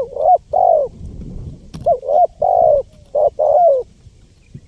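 Spotted dove (tekukur) cooing: three phrases of deep coos, each a short note followed by one or two longer ones, the last ending about a second before the end.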